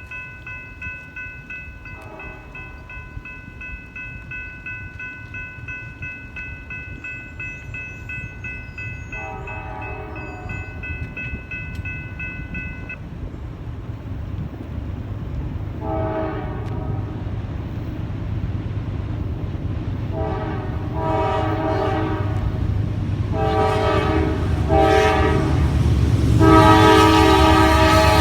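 Norfolk Southern grain train approaching, its locomotive horn sounding a series of blasts that get louder and closer, the last one long and loudest near the end, over a rising diesel and wheel rumble. A steady ringing tone runs through the first half and stops about halfway.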